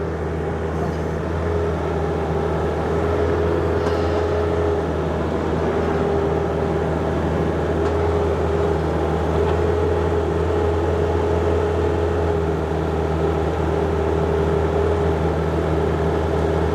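Diesel engine of a John Deere 50ZTS mini excavator running steadily while it digs, with a steady whine above the engine drone.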